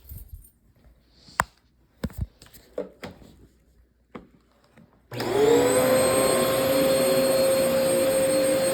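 A few clicks and knocks, then about five seconds in a vacuum cleaner is switched on: its motor spins up with a rising whine and settles into a steady run with a strong suction rush.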